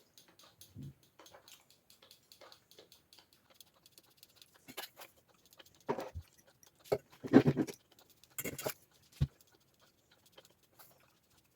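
Chocolate being sprinkled over a buttercream cake: many light, scattered ticks and scratches, with a few louder short rustles and taps around the middle.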